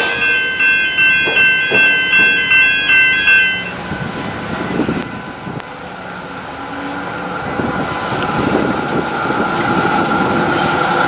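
Railway level-crossing warning bells ringing in quick, evenly spaced pulses, stopping about four seconds in. A steady rushing noise with a faint high whine follows.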